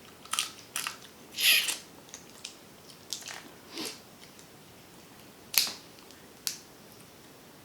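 Close-up eating sounds from a seafood boil: about seven separate short, sharp cracks and crunches, the kind made by breaking crab-leg shell and biting, with quiet chewing between them.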